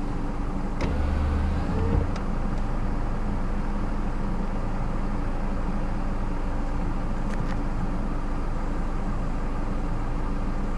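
Steady low hum of an idling vehicle engine heard from inside a stopped car, with a brief deeper rumble about a second in and a few faint clicks.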